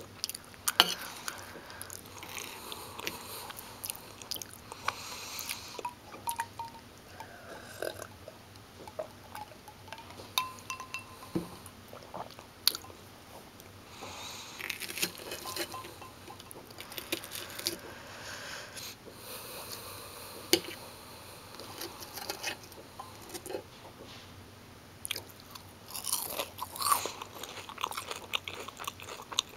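A person biting into and chewing crunchy breaded fish sticks close to the microphone, with many sharp irregular crunches that are loudest near the end.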